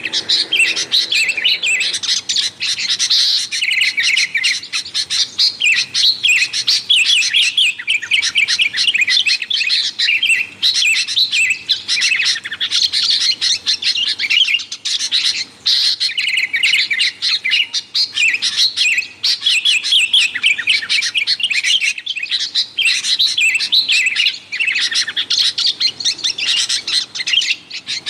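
Sooty-headed bulbuls calling: a busy, continuous chatter of quick, overlapping chirps, with only brief pauses every few seconds.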